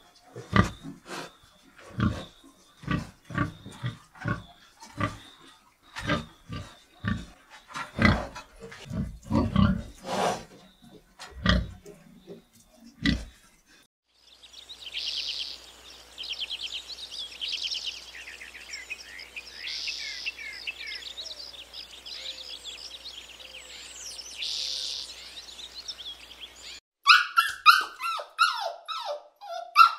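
A sequence of animal calls. First come short, deep grunts repeated irregularly for about thirteen seconds. Then high, rapid chirping and twittering takes over for about twelve seconds, and near the end a dog whimpers and yips.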